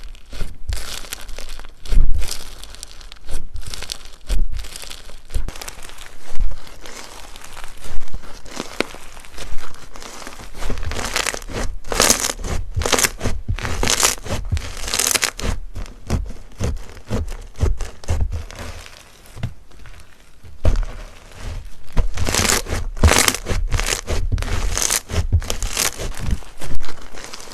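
Slime being squeezed, poked and stretched by hand, giving an irregular run of crackling, popping and crinkling clicks, with busier stretches a third of the way in and again near the end.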